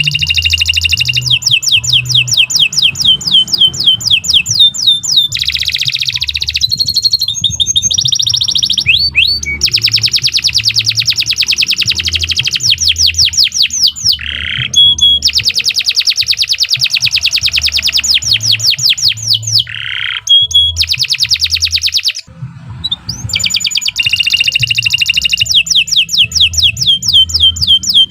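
Domestic canary singing long, continuous rolls of rapid trilled notes, changing from one trill to the next, with a brief break about three quarters of the way through.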